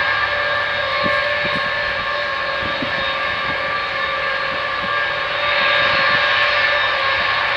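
Lockheed C-5A Galaxy's four General Electric TF39 turbofan engines running, a steady jet noise with a held whine, growing a little louder about five and a half seconds in.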